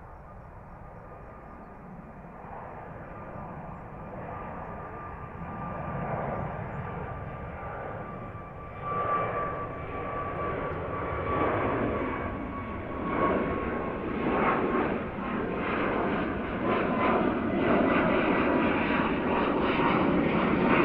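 Jet airliner departing, its engine noise growing steadily louder as it approaches. A high whine drifts slowly down in pitch.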